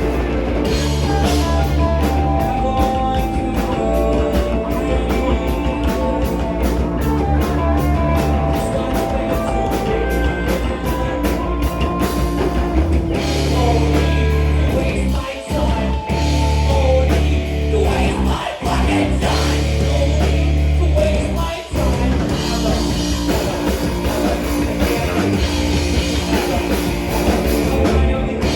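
Live rock band playing an original song: electric guitar, bass and drum kit with sung vocals. A few brief stops hit together break up the middle.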